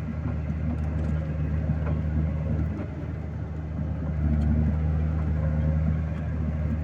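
Vehicle engine running steadily, easing off about three seconds in and picking up again a second or so later.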